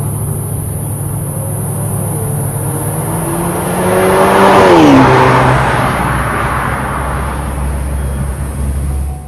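Alfa Romeo Tonale's engine note through an MS-R valved cat-back exhaust. It runs steadily, swells loudest about halfway with the pitch then falling away, and settles back into a low drone.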